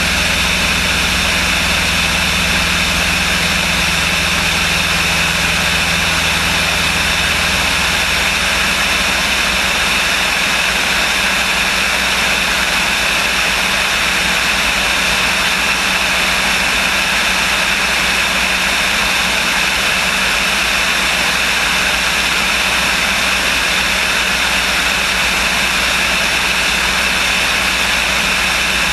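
Light propeller airplane's engine and propeller, a steady drone inside the cabin. The low engine tone shifts slightly about eight seconds in.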